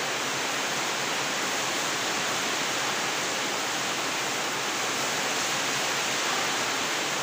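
Heavy rain falling, a steady even rushing hiss with no separate drops or knocks standing out.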